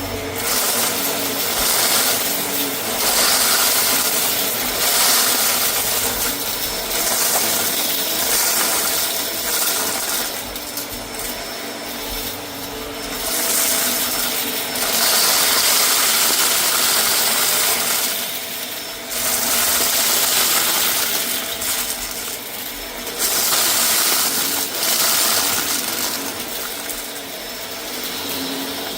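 Vacuum cleaner running over a rug and picking up scattered debris, its noise swelling and easing every few seconds.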